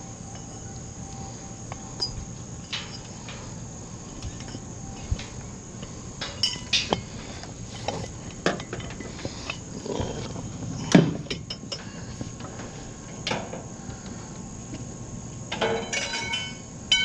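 Scattered metallic clinks and knocks of scrap metal being handled, loudest about eleven seconds in, with a cluster of clinks near the end. Crickets chirr steadily behind.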